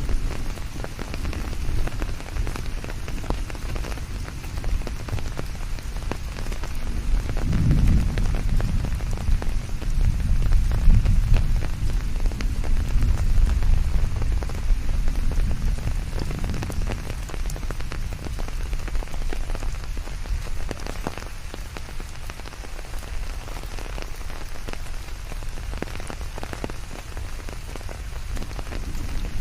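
Steady rain falling on surfaces, with many separate drops pattering. A low rumble swells up about eight seconds in and fades out by about seventeen seconds.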